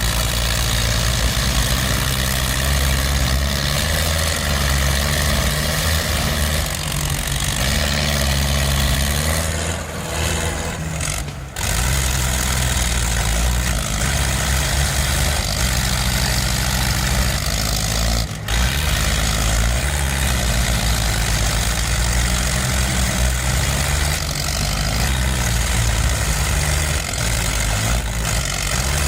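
Heavy tractor diesel engines running, a steady low engine sound broken by two abrupt cuts, about eleven and eighteen seconds in.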